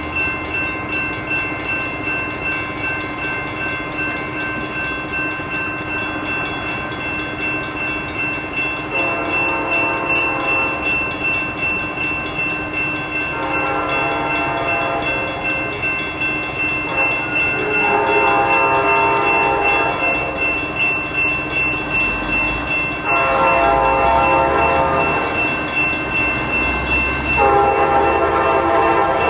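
Amtrak GE P42DC locomotive's five-chime K5LA air horn sounding five long chord blasts a few seconds apart, with the diesel's low rumble growing louder near the end as the train approaches.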